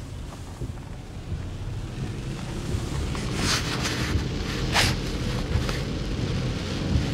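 Storm wind buffeting the microphone in a steady low rumble, with a car's low drone under it. Two short hissing swishes come about three and a half and five seconds in.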